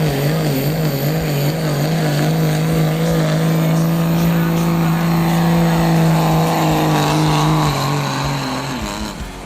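2005 Dodge Ram's Cummins inline-six turbodiesel running hard under load on a sled pull, holding a steady, loud note. About eight seconds in, the engine drops off and fades.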